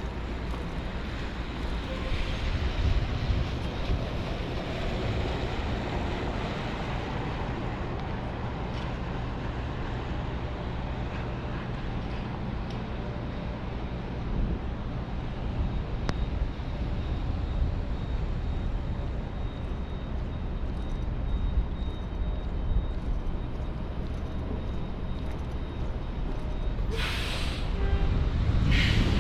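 Downtown street traffic in the rain: a steady rumble of passing vehicles, with two short bursts of hiss near the end.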